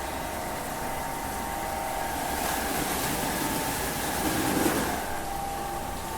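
A vehicle running with a steady hum and a couple of held tones. The sound swells through the middle and eases off after about five seconds.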